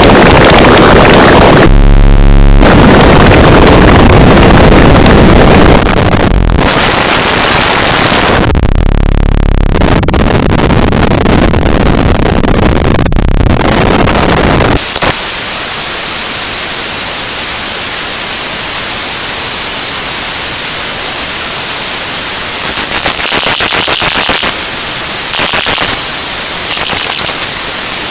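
Harsh static-like hiss, very loud and rough at first with brief changes in texture. About fifteen seconds in it gives way to a steadier, quieter hiss, with a few short high-pitched bursts near the end.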